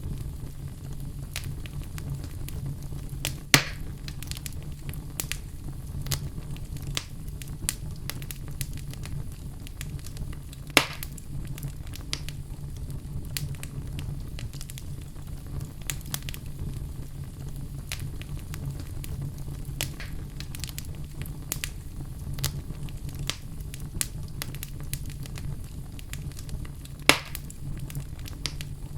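Wood fire burning in a fireplace: a steady low rumble of flames with frequent scattered crackles, and three louder pops, about three and a half seconds in, near eleven seconds in, and near the end.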